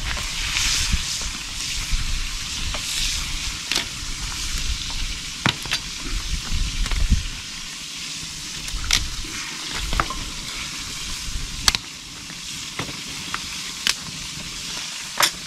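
Oil sizzling steadily in a pan as white-winged dove meat fries, with sharp pops every second or so.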